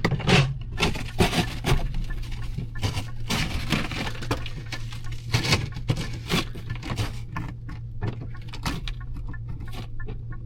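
Ice and packed snow being scraped and knocked off a frozen windshield and wipers: irregular cracks, knocks and scrapes over a steady low hum.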